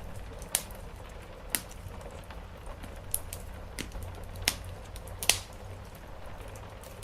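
Wood fire crackling: sharp, irregular pops, about six in seven seconds, the loudest near the start and around the middle. Under it runs a steady hiss of rain on the roof.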